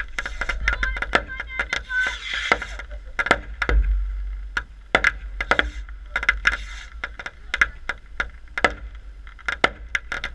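Fireworks popping and crackling: many sharp cracks in quick, irregular succession over a low rumble.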